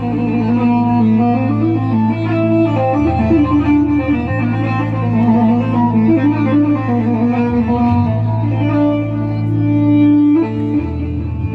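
Electronic keyboard (Arabic org) playing an ornamented instrumental melody over held bass notes that shift a few times, with string-like voices.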